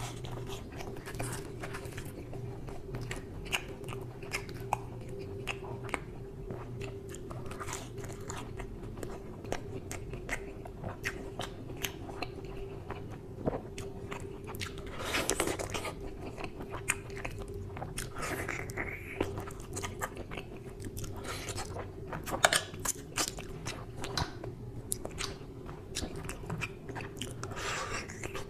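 Close-miked eating sounds: wet chewing, lip smacks and mouth clicks as a man eats mutton curry and puri by hand. A steady low hum runs underneath.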